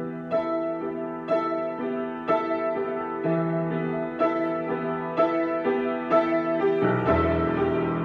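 Solo piano improvisation: single notes struck about twice a second over held chords, in an even, unhurried pattern, with deep bass notes coming in near the end.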